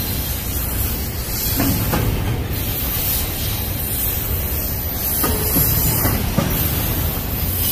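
Union Pacific double-stack intermodal freight train's loaded container well cars rolling past, a steady noise of steel wheels on rail with a few faint knocks.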